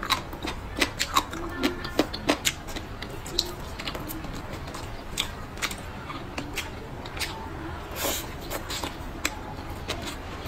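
Close-up eating sounds: a person chewing with irregular wet mouth smacks and clicks, several sharp ones in the first few seconds and a longer noisy smack about 8 seconds in.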